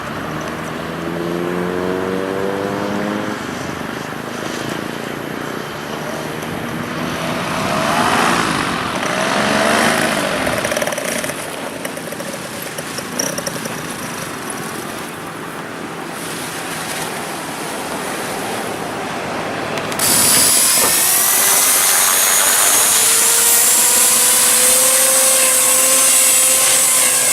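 Radio-controlled model airplane's motor flying overhead, its pitch sliding up and down as it passes back and forth. About two-thirds of the way in, a louder, steady high whine suddenly takes over, its pitch slowly rising.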